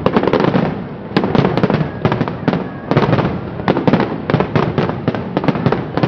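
Fireworks display: shells bursting in quick succession, a dense run of sharp bangs and crackles, several each second, over a continuous rumble.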